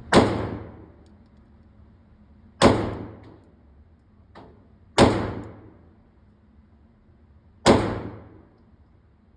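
Four slow, deliberately spaced 9mm pistol shots from a SIG P365 Fuse, roughly two and a half seconds apart, each followed by about a second of echo in the indoor range.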